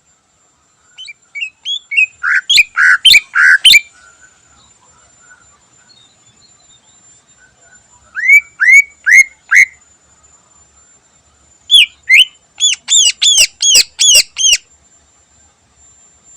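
Greater green leafbird (cucak ijo) singing loud whistled phrases in three bouts: a quick run of notes, then four rising notes, then a fast string of repeated notes near the end.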